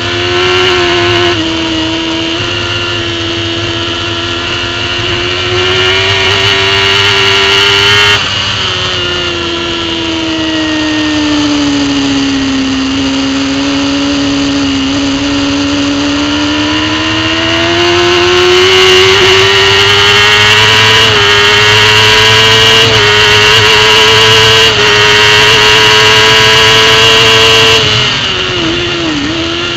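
Racing superbike engine heard on board at speed: the pitch drops sharply about eight seconds in and sinks lower through a corner, then climbs for a long stretch of hard acceleration, with a few small steps along the way. Near the end the throttle closes and the pitch falls and wavers as the bike brakes.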